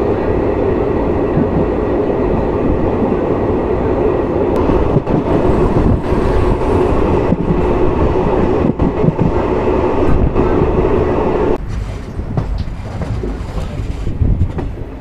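Passenger train coach running along the track, heard from its open doorway: a loud, steady rumble of wheels on rail with irregular clatter. About two-thirds of the way through, the sound drops abruptly to a lighter, quieter rumble.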